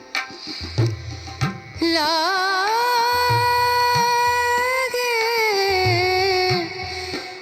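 Hindi song: after a few quick drum strokes, a singer holds one long, wavering note for several seconds over a repeating low drum beat.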